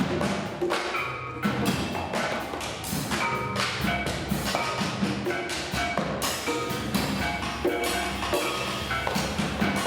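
Small ensemble playing free improvisation, dense with percussion: many quick wood-block-like knocks and short pitched mallet notes struck in an irregular flurry.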